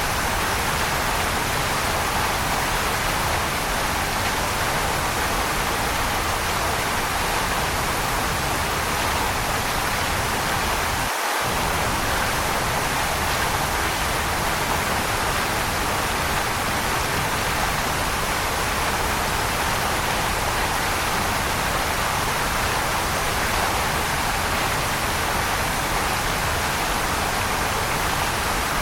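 Waterfall, a steady rush of falling water that does not change.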